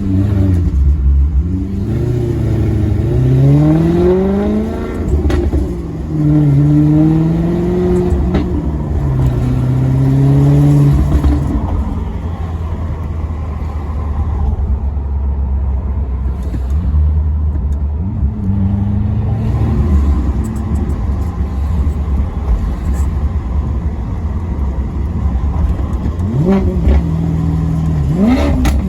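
Maserati Quattroporte Sport GT V8 accelerating through the gears: the engine note climbs in pitch three times and drops at each upshift. It then runs at a steadier, lower note before a few quick throttle blips near the end, as on downshifts.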